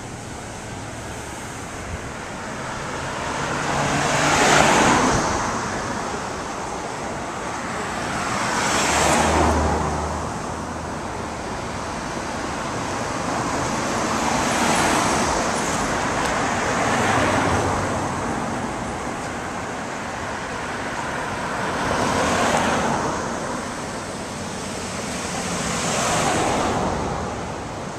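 Road traffic: cars passing one after another, about six passes, each swelling and fading over a couple of seconds over a steady background rush.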